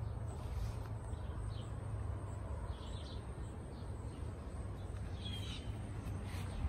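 Outdoor ambience: a few faint, short bird chirps over a steady low rumble of wind on the microphone.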